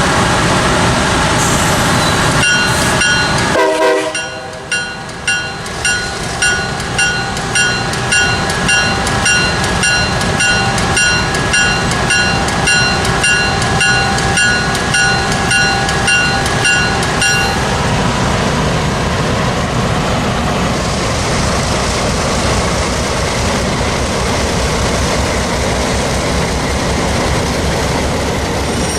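A train horn sounds for the first few seconds and cuts off about four seconds in. A grade-crossing bell rings about twice a second as the train rolls by, and stops about seventeen seconds in. The rumble of the train's wheels on the rails carries on to the end.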